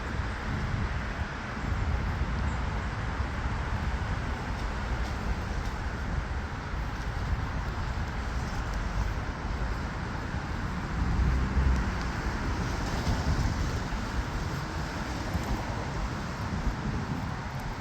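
Steady rain with car traffic passing on a wet road, a low rumble that swells as one vehicle passes about two-thirds of the way through.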